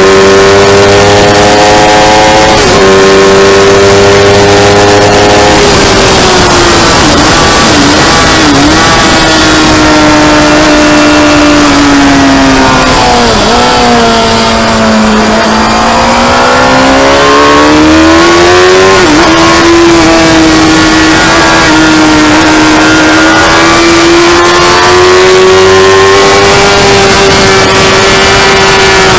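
Motorcycle engine lapping a race track at high revs. It climbs through the gears with quick upshifts near the start, blips down through the gears about seven to nine seconds in, and falls to its lowest note about halfway through as the bike slows for a corner. It then pulls hard again with another upshift and holds a steady high note, over a constant loud rushing noise.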